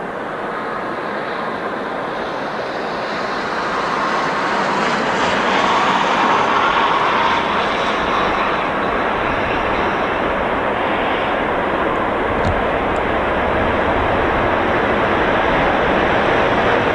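2ES10 'Granit' electric locomotive hauling a freight train, its steady rush of motors and wheels growing louder over the first few seconds as it approaches, then holding.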